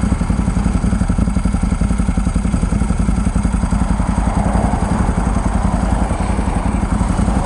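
1996 Ducati 916's 90-degree V-twin engine running at a steady low speed, with an even, pulsing beat.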